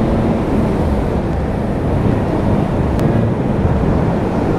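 Motorcycle being ridden at road speed: heavy wind rush over the microphone over the engine's steady running note.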